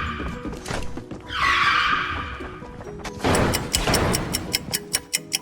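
Sound effects over a background music track: a pitched effect slides downward twice, then a noisy falling rush comes about three seconds in, followed by a quick run of evenly spaced ticks.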